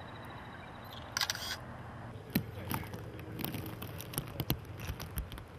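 Scattered faint clicks and taps over a low steady hum, with a short rustling burst about a second in.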